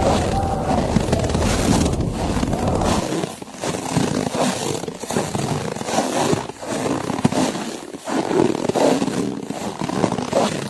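Footsteps crunching through snow: a run of scraping crunches with short breaks between them. A low wind rumble drops away about three seconds in.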